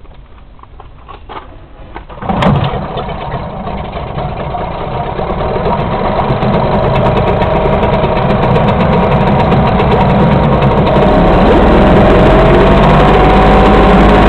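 British Seagull 40 Plus Mark II single-cylinder two-stroke outboard, revived after about 20 years unused, catching suddenly about two seconds in after a few light clicks. It then keeps running steadily, growing louder before levelling off.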